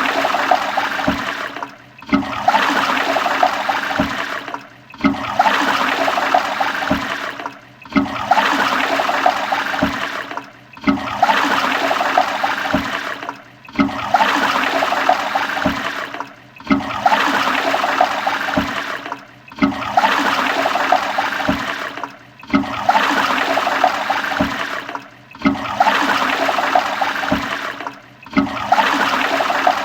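Toilet flushing: water rushing through the bowl, a short stretch of the flush looped over and over, each pass about three seconds long and separated by a brief dip.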